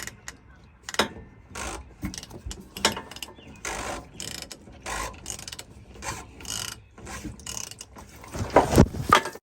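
Irregular mechanical clicking and clattering, a string of short bursts with the loudest pair near the end.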